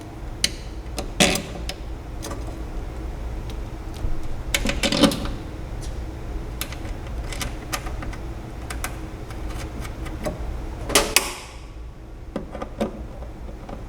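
Plastic wiring harness clips being pressed into place inside a fryer cabinet: scattered sharp clicks and small knocks, with a louder clatter late on, over a steady low hum.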